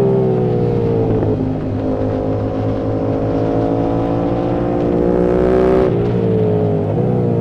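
Yamaha YZF-R7's parallel-twin engine through an aftermarket M4 exhaust, ridden hard on track. Its pitch drops about a second in, climbs steadily under throttle for about four seconds, then falls sharply at a gear change near six seconds and dips again near the end.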